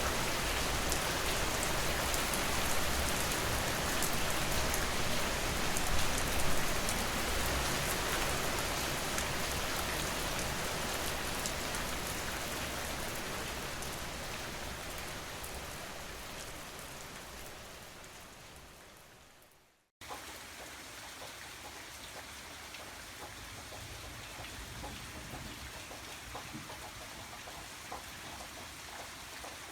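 Steady rain falling, a dense hiss with individual drops pattering, that fades out gradually over about ten seconds to a brief silence. About two-thirds of the way through, a quieter rain recording cuts in abruptly and carries on evenly.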